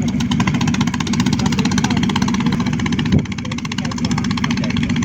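Boat engine running steadily, a fast even pulse. There is a single short thump a little after three seconds in.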